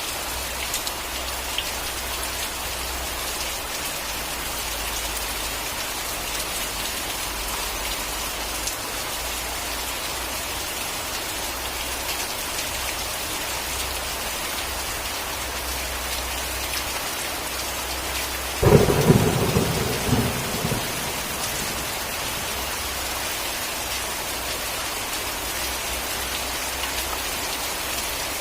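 Steady rain falling on a surface, with one sudden, loud clap of thunder about two-thirds of the way through that crackles and dies away over a couple of seconds before the rain carries on alone.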